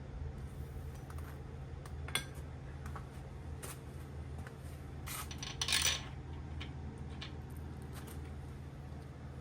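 Small metal parts or hand tools being handled on a workbench: light metallic clinks, one sharp click about two seconds in and a short scraping clatter a little past halfway, over a steady low hum.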